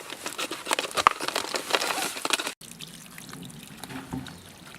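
Small spring's water trickling and splashing, with many sharp clicks and knocks as the channel is cleared by hand. About two and a half seconds in, the sound breaks off and a quieter, even trickle follows.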